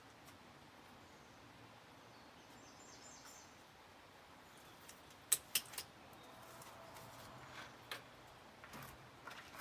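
Quiet background with a few sharp clicks or knocks, the two loudest close together about five and a half seconds in, and a brief faint high chirp about three seconds in.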